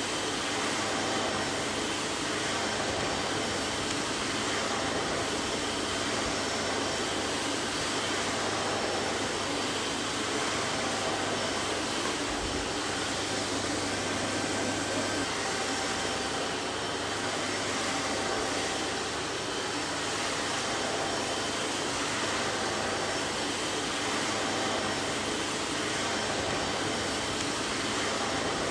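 Vacuum cleaner running steadily: an even hiss of rushing air over a faint motor hum, with no change in pitch or level.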